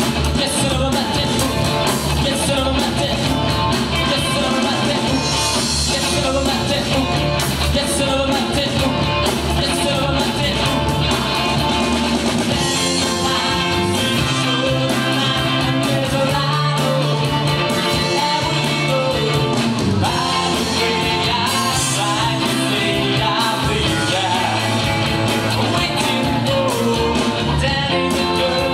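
Rock band playing a song: a singer over guitar and a steady beat.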